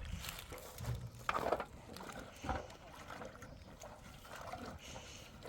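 Water sloshing and splashing in irregular strokes, the strongest about a second and a half in.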